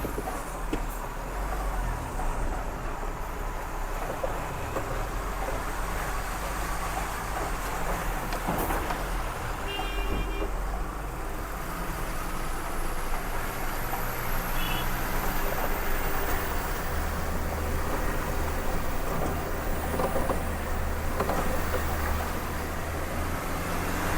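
Truck's diesel engine running with road noise while driving over a rough, broken road. A short horn toot sounds about ten seconds in, and a fainter one around fifteen seconds.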